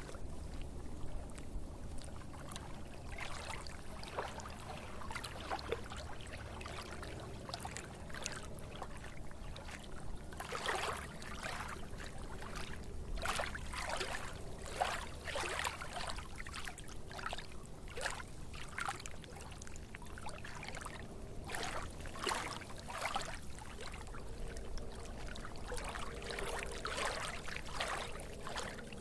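Water splashing and gurgling in irregular little bursts over a steady low rumble.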